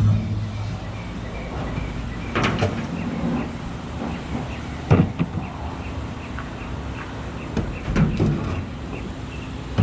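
A few dull knocks or clunks, a couple of seconds apart, over a steady mechanical hum and a faint, even ticking about three times a second.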